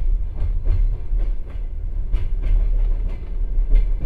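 Passenger train carriage rolling at low speed, heard from inside a compartment car: a steady low rumble with wheel clicks over the rail joints, about two a second.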